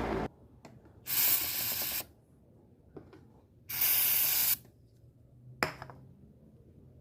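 Two short hissing bursts from an aerosol lubricant spray can, each just under a second long and about two and a half seconds apart, lubricating a wall fan, with a few light clicks between them. Just at the start, the hum of the running fan cuts off.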